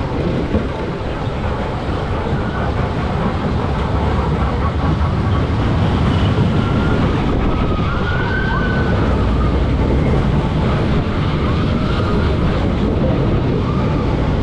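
Tornado funfair ride running, heard from on board: a steady heavy rumble with wind rushing past. Faint gliding tones rise and fall about six to nine seconds in.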